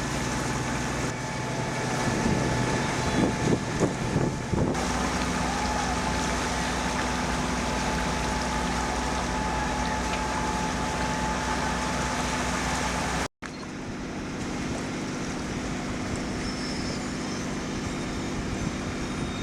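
Sailing yacht's engine running steadily under way, with wind and water rushing past. The sound briefly cuts out about 13 seconds in.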